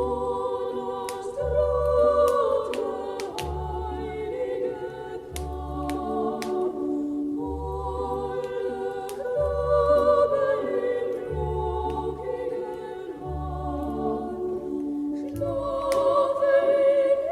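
A choir singing a Christmas song over a steady pulsing bass, with sharp crackles from a log fire scattered through it.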